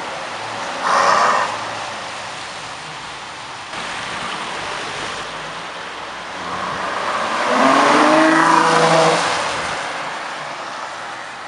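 Ferrari FF's V12 engine giving one short sharp rev about a second in, then accelerating, its note climbing in pitch and loudest around eight seconds before fading away.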